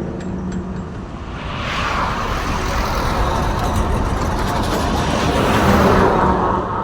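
Truck driving past on the road: its engine and tyre noise builds from about a second and a half in, is loudest near the end, then starts to fade.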